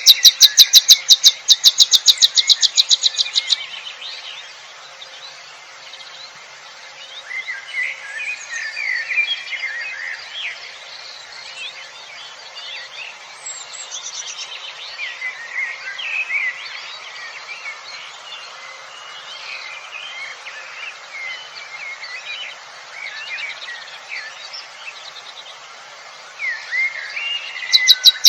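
Several birds chirping and singing. It opens with a loud, fast run of sharp repeated notes, about ten a second, that stops after some three seconds, then a steady mix of quieter varied chirps and short whistles follows. A similar fast run comes back near the end.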